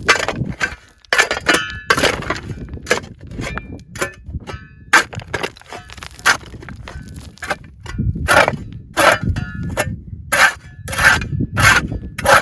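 Repeated crunching, scraping impacts on gritty ground or stone, irregular, about one or two a second.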